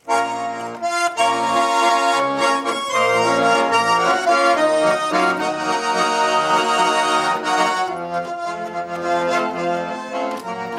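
Russian garmon (button accordion) playing the instrumental introduction to a folk-style song: a held reed melody over short, rhythmic bass-and-chord accompaniment.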